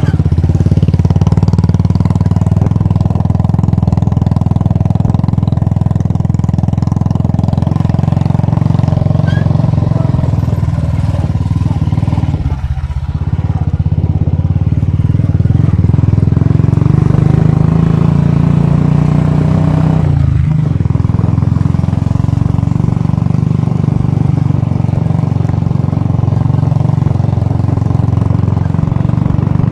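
Royal Enfield Bullet single-cylinder motorcycle engine running steadily under way, with a brief drop in engine sound about twelve seconds in and another about twenty seconds in.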